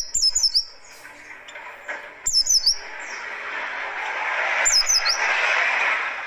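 White-eye (pleci) song in three quick bursts about two seconds apart, each a rapid cluster of high, sweeping notes: the harsh 'tembakan' phrase used as training song for caged white-eyes. A rushing hiss swells in the background through the second half.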